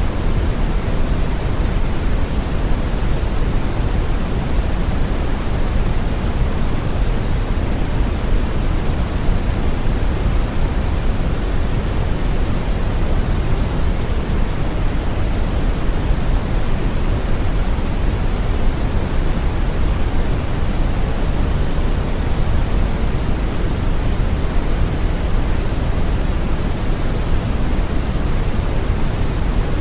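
Steady synthetic brown noise: a deep, even rumbling hiss with most of its weight in the low end and little treble, unchanging throughout.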